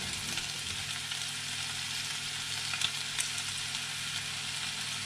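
Beef and spring onion sizzling steadily in a frying pan, with a couple of faint ticks about three seconds in.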